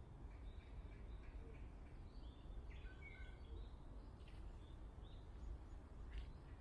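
Birds chirping faintly in woodland, many short scattered calls over a steady low rumble, with one sharp click near the end.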